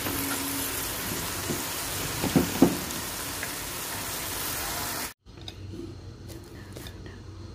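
Noodles, bean sprouts and garlic chives sizzling in a hot wok, with a couple of sharp knocks of the spatula against the wok about two and a half seconds in. The sizzle cuts off suddenly after about five seconds, giving way to a quieter steady low hum.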